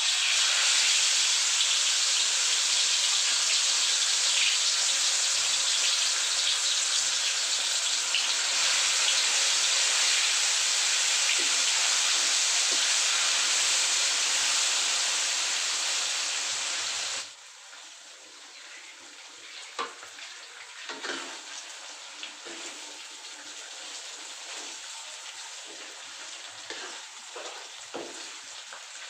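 Food frying in hot oil in a pan, a loud dense sizzle; about seventeen seconds in it drops suddenly to a much quieter sizzle with scattered pops and crackles.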